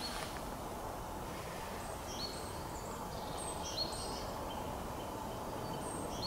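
Small songbirds calling: scattered short, high, thin call notes, a few of them sliding in pitch, over a steady low background hiss.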